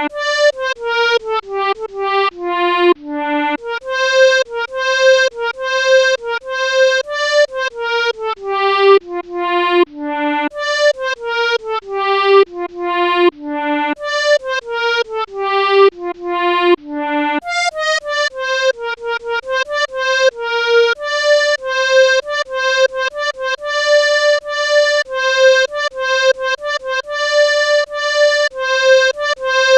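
Melodica playing a single-line melody, one short reedy note after another in runs that step down in pitch, then settling into longer repeated notes in the last ten seconds or so.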